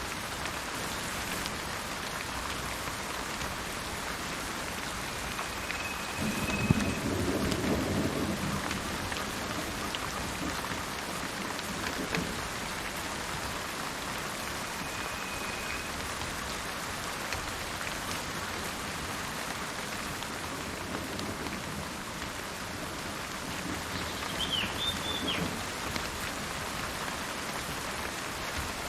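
Steady rain falling on the forest, with a low rumble of thunder about a quarter of the way in. A few short bird whistles and one brief bird call near the end.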